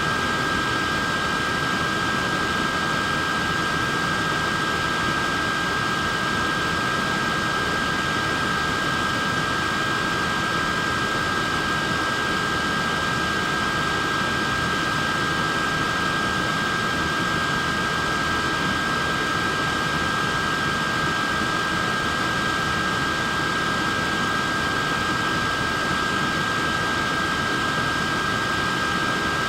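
Portable neck fan running steadily: an even rush of air with a steady high motor whine.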